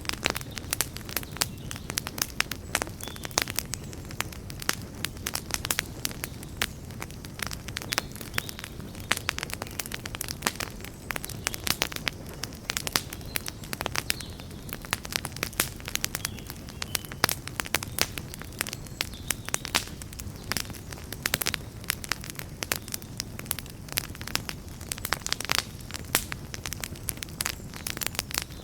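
Wood fire burning steadily with dense, irregular crackling and popping over a low, steady rumble of flames.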